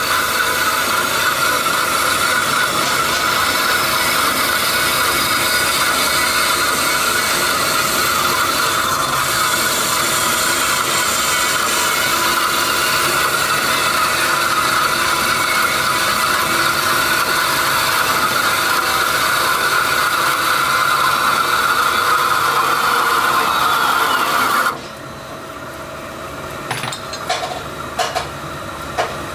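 Factory machinery running steadily with a dense mechanical clatter, cutting off abruptly about 25 seconds in, after which quieter scattered clicks and knocks follow.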